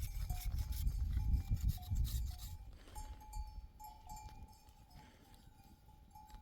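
Goats and sheep of a flock, with a low rumble over the first few seconds that then falls away.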